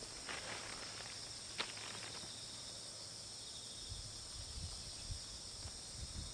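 Insects chirring steadily in a high, even drone, with a few sharp clicks in the first two seconds and soft low thumps from about four seconds in.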